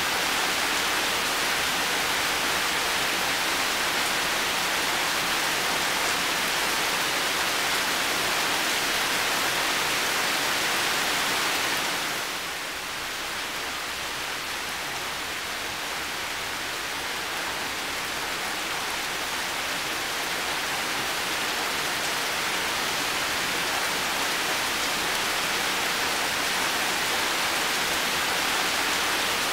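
Heavy rain falling in a steady, dense hiss. About twelve seconds in it drops a little in loudness, then slowly builds back.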